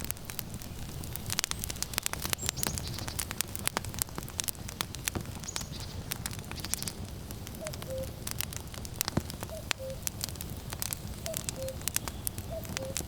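Wood fire crackling and popping in many sharp snaps over a low steady rumble. From a little past halfway, a common cuckoo calls its falling two-note "cuck-oo" several times.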